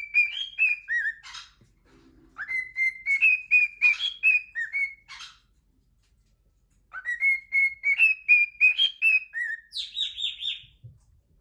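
Cockatiel whistling: the same quick run of rising and falling notes comes in three bouts, with short silent pauses between them.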